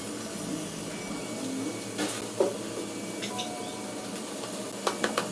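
Light rain falling as a steady hiss, with a low steady hum underneath and a few faint knocks and clicks, a couple of them close together near the end.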